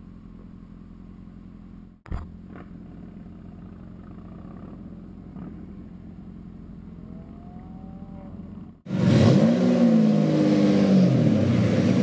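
A low, steady engine idle, then about nine seconds in a Lamborghini Diablo's V12 is revved loudly in repeated blips, its pitch rising and falling with each one.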